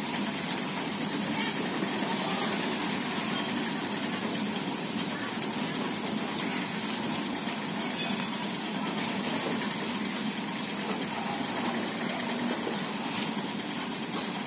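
Freight train wagons rolling past on the rails, with a second train on the next track: a steady rumbling rolling noise.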